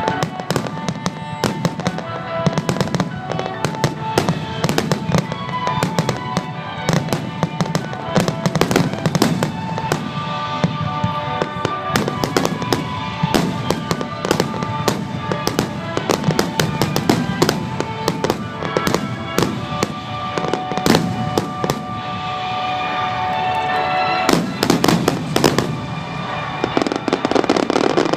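Fireworks shells bursting in quick succession with crackling, over music played along with the display. A thicker cluster of bangs comes a little before the end.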